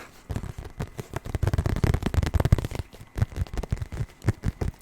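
Fingers tapping rapidly on a Nintendo Switch carrying case, a close-miked run of quick, dull taps in clusters with short pauses between.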